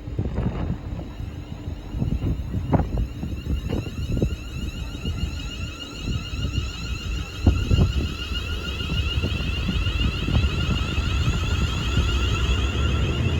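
Train running through the station: a steady low rumble with sharp clicks of wheels, and a high whine that builds from about halfway through, with wind on the microphone.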